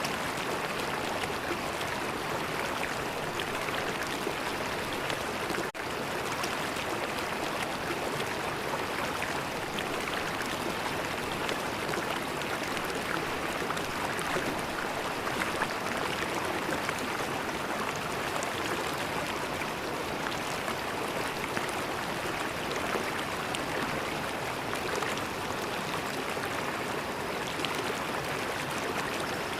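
River water flowing steadily, a continuous rushing sound, with a momentary dropout about six seconds in.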